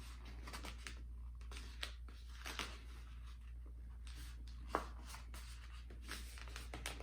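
Poster-board cardstock being folded and creased by hand: scattered soft rustles and crackles, with one sharper crack a little under five seconds in. A steady low hum runs underneath.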